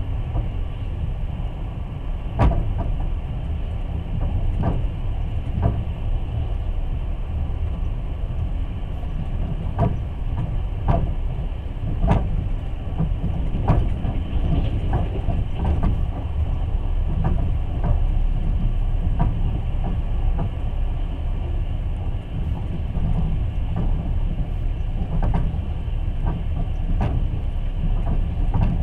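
Long-distance passenger train carriage running on the rails, heard from inside the car: a steady low rumble with sharp wheel clicks and knocks at irregular intervals.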